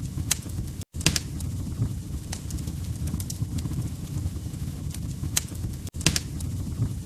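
Wood fire crackling: a steady low rumble of burning logs with sharp pops every second or so. The sound cuts out completely for an instant twice, about a second in and again near six seconds.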